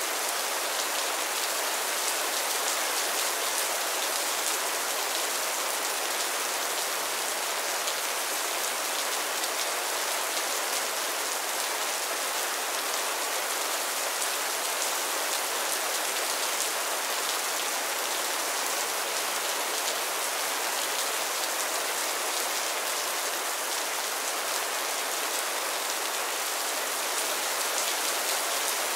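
Heavy rain falling steadily: a dense, even hiss of countless drop impacts that holds without any change.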